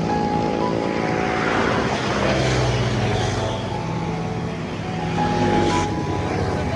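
A motor vehicle's engine running steadily, with a hiss of noise over it.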